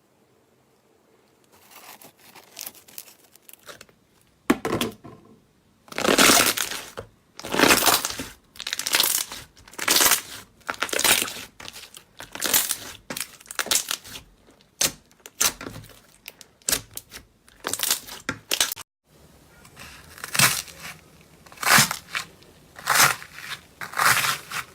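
Slime being squeezed and pressed by hand, making crunchy, crackling squishes about once a second after a faint start, with a short silent break about three-quarters of the way through.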